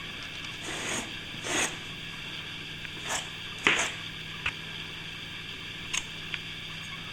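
Short, separate scrapes and a couple of sharp ticks from a plastering hand tool worked against a ceiling crack, the loudest scrape about two-thirds of the way through, over a steady low hum.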